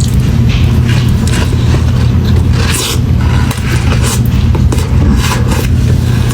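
A steady, loud low rumble, like a vehicle running, with short irregular crackling and scraping noises over it.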